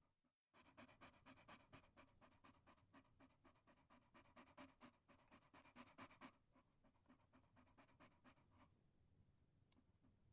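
Chihuahua panting quickly and faintly, about five short breaths a second, stopping near the end.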